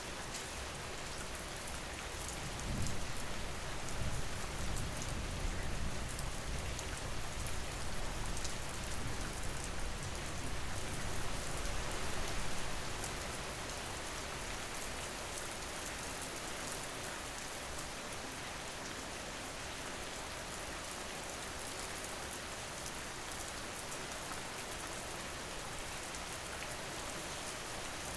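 Steady rain, an even hiss of falling rain throughout. A low rumble swells underneath from about three seconds in until about twelve seconds in.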